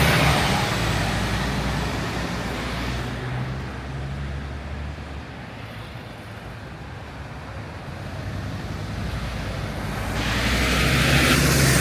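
Scania city bus passing with its engine running, fading away over the first few seconds into a low traffic hum. A second vehicle approaches and grows loud near the end.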